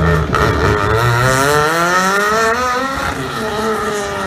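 Rally car engine revving, its pitch climbing with a wavering note for about two seconds, then easing off.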